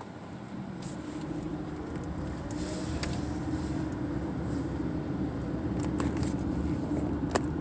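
Car driving on the road, heard from inside the cabin: a steady engine and road rumble that grows gradually louder, with a couple of sharp clicks near the end.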